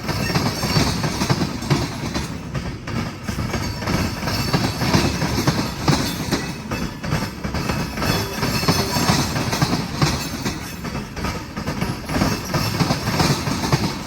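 Freight cars of a long train rolling past close by: a steady rumble of steel wheels on rail, with frequent clacks as the wheels cross the rail joints.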